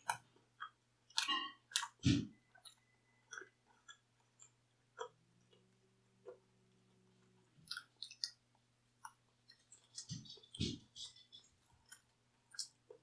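Close-miked chewing of thin-crust pizza: irregular soft mouth clicks and crisp crackles of crust, with a few louder low thuds.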